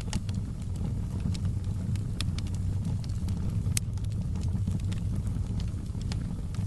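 Fire in a fireplace crackling: irregular sharp pops over a steady low rumble of the flames, with one louder pop nearly four seconds in.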